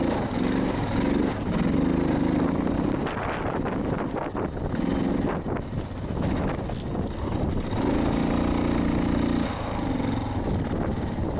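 Suzuki DR650 single-cylinder four-stroke engine pulling uphill, its note swelling and dropping in bursts as the throttle is opened and eased off. Loud wind buffeting on the microphone runs under it.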